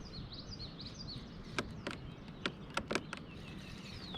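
A small bird chirping a quick run of short, high, falling notes over a steady low outdoor background, then a handful of sharp clicks and taps from about halfway through.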